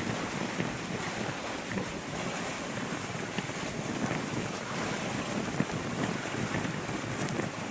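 Wind buffeting the microphone and sea water rushing and splashing along a sailboat's hull as it sails, a steady noisy wash with small scattered ticks.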